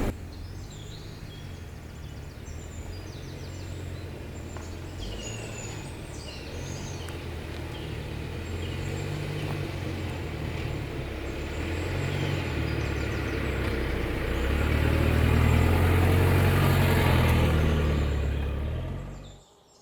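A steady low rumble that swells louder in the last few seconds and then cuts off abruptly, with birds chirping faintly over it in the first half.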